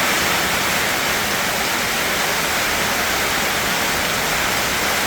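Heavy rain pouring down steadily, an even hiss with no separate drops or knocks.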